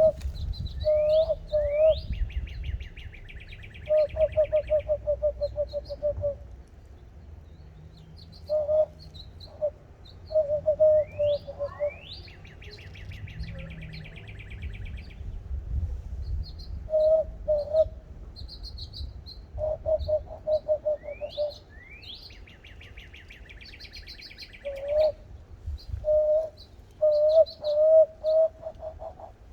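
Bird song and calls: a repeated song of two quick rising notes followed by a buzzy trill, heard three times about ten seconds apart, alternating with groups of lower, rapidly repeated call notes.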